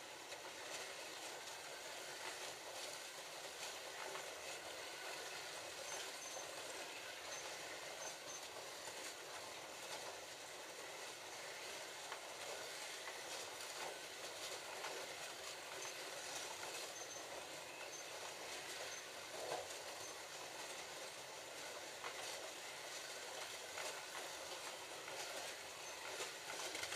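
Several slot cars running laps together on a plastic track, their small electric motors whining and their wheels and guide braids rattling on the rails in a steady, even noise.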